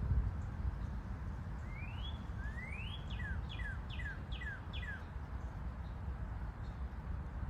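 A songbird singing: two rising whistled notes, then a run of five quick down-slurred notes, over a steady low outdoor rumble.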